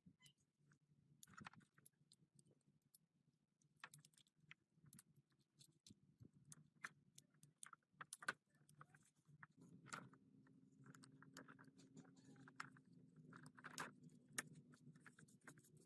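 Faint, scattered clicks and light taps over a low steady hum; about two-thirds of the way in, a low drone with a steady tone joins in.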